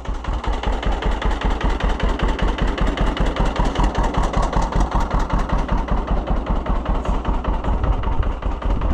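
Two-cylinder tractor engine running with a steady, even exhaust beat.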